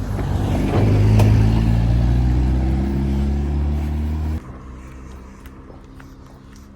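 Motor vehicle engine running under load, its pitch rising a little about a second in. About four and a half seconds in it cuts off sharply to a much quieter engine hum.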